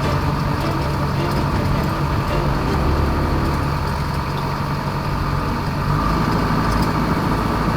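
Widebeam boat's engine running steadily under way, a constant low hum with no change in pace.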